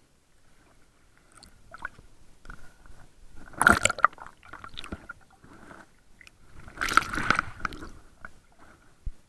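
Water noise heard at the camera: two loud swishing, gurgling bursts about three seconds apart, over a faint steady high hum and small clicks.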